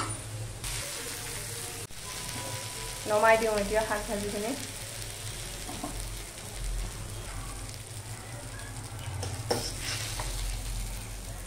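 Bhotuwa (bathua) greens and dal bori sizzling as they fry in an iron kadai, stirred with a spatula, with a few light knocks. About three seconds in, a short voice-like sound with wavering pitch rises above the frying for about a second and a half.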